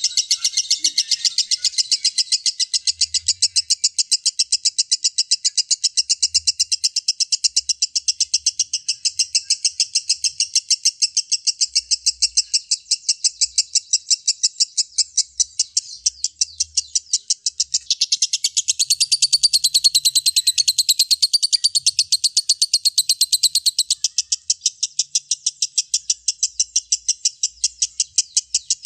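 Lovebird singing a long, unbroken ngekek: a fast, even run of high, shrill chattering notes, several to the second. The song gets brighter and higher for a few seconds past the middle.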